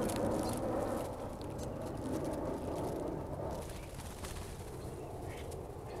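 Small birds feeding on snow-covered seed and flying off: a rustling flutter that fades away, with scattered short, sharp clicks.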